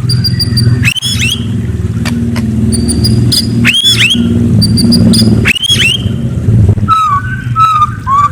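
A murai songbird singing short upswept whistles with clipped high notes, then a quick run of lower notes near the end, over the loud steady low drone of an engine running close by that cuts in right at the start.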